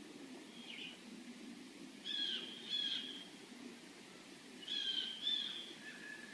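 A bird calling in two bursts, each a pair of short high notes, over a faint steady low hum.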